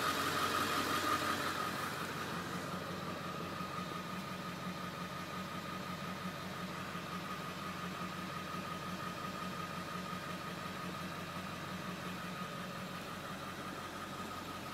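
Ford Excursion's engine idling steadily, heard from inside the cab; a little louder for the first couple of seconds, then even.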